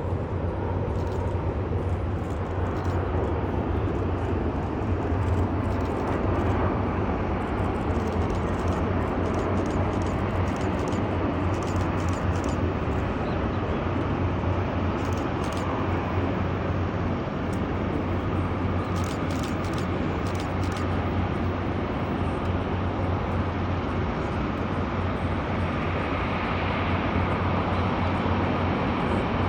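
Emirates Airbus A380's four jet engines running: a steady jet noise with a deep low hum, a higher whine swelling near the end.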